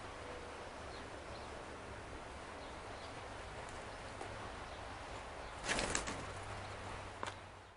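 Steady hiss of outdoor air, with a short, louder flurry of California scrub jay wingbeats about three-quarters of the way in as the bird flies off, then a brief click.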